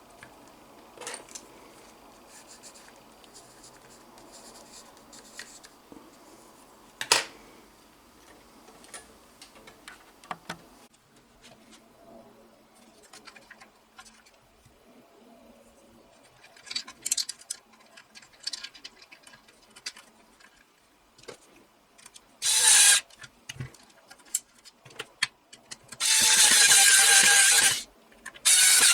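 Workbench handling noise: scattered clicks and knocks of small parts and tools, then two louder bursts of a noisy, whirring tool sound near the end, the second about two seconds long.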